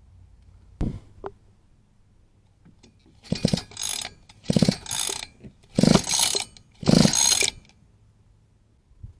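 A single knock, then four short bursts of rapid ratcheting clicks, each lasting under a second, from work on a mini bike's small engine.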